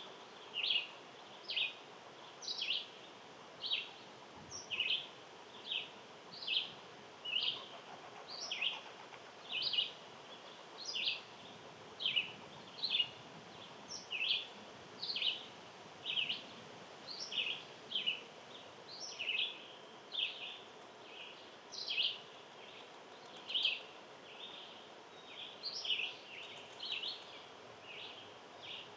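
One small animal giving a long run of short, sharp, high chirps, about one and a half a second, over a faint steady outdoor hiss.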